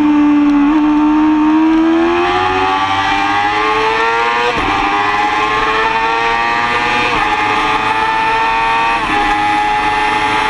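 2005 Yamaha R6's inline-four engine accelerating hard out of a corner, revs climbing with three quick upshifts: the first about halfway through, then two more a couple of seconds apart. Wind noise runs under it.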